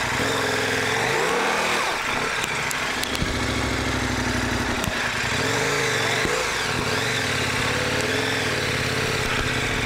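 Adventure motorcycle engine running as it is ridden, the revs rising and falling twice over a steady hiss.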